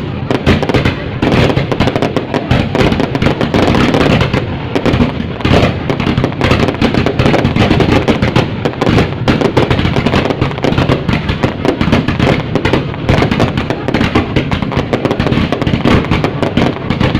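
Fireworks going off in a dense, unbroken run of bangs and crackles, many per second.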